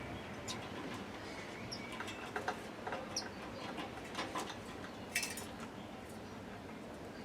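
Birds feeding at a plastic floppy-disk-box feeder: irregular light taps and clicks of beaks and feet on the plastic, with a couple of short high chirps.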